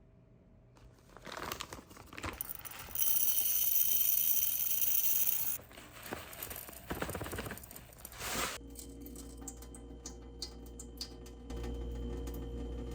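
Kitchen work sounds: light handling and clatter, a loud steady rush of noise for about two and a half seconds from about three seconds in, more clatter, then from about two-thirds of the way through a steady low appliance hum.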